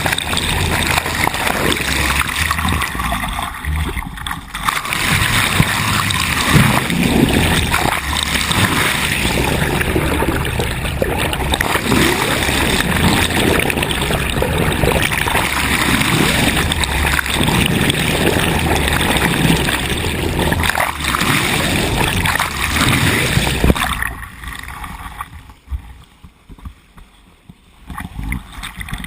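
Water rushing and splashing along a sailboat's hull as it moves through the sea, a loud, steady wash that falls away abruptly near the end.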